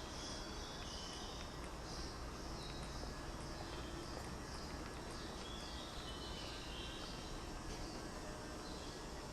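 Outdoor background noise: a steady low rumble with repeated high-pitched chirping throughout.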